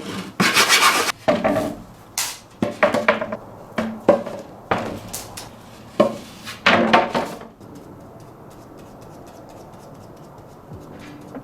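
A run of clattering knocks and scrapes, like hard pieces of material being handled and set down, for about the first seven seconds. The knocks then stop, leaving a fainter steady background.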